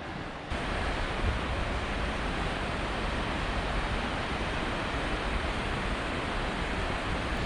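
Goðafoss waterfall's heavy, powerful flow: a steady, even rush of falling water, louder from about half a second in.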